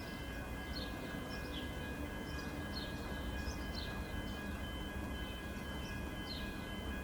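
Electric train's steady hum and whine over a low rumble, with birds giving short falling chirps every second or so.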